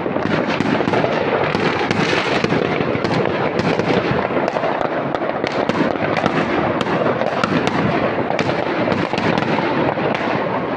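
Dense, continuous barrage of fireworks and firecrackers going off, many overlapping cracks and bangs with no pause.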